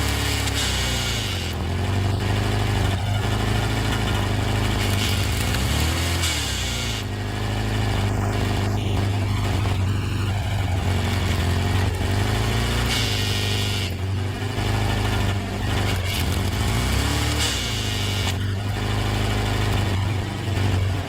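Engine-driven hydraulic wood splitter running steadily, its pitch swelling up and back down several times.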